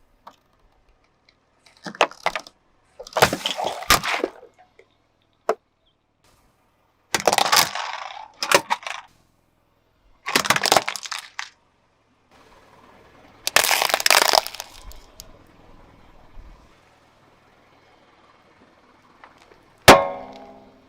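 Brittle objects cracking and crunching as they are crushed under a car tyre, in five separate bursts of breaking. Near the end comes one sharp impact, the loudest sound, which rings briefly.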